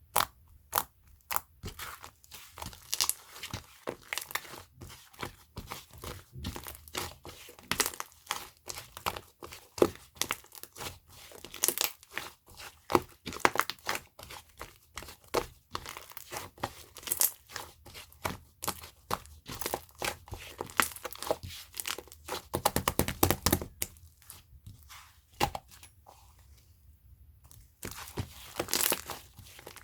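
Chewy slime being squeezed, stretched and pressed by hand, giving a steady stream of irregular sticky clicks and pops. A dense run of crackling comes about three-quarters of the way through, followed by a brief lull.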